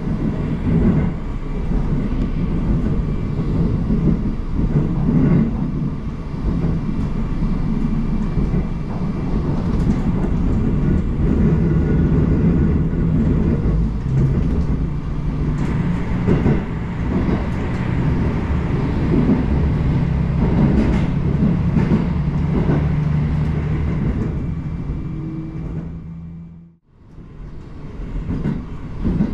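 Diesel train running along the rails: a steady low engine and running drone with scattered wheel clicks over rail joints. The sound falls away briefly near the end, then comes back.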